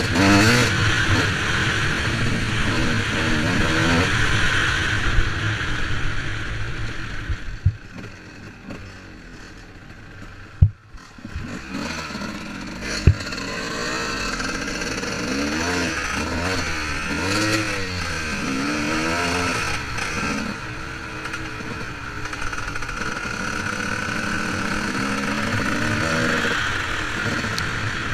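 Motorcycle engine revving up and down, dropping away for a few seconds in the middle with a couple of sharp knocks, then rising and falling repeatedly again.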